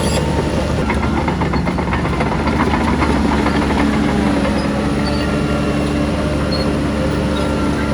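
Heavy diesel engine of earthmoving machinery running steadily, with a patch of metallic clatter between about one and three seconds in.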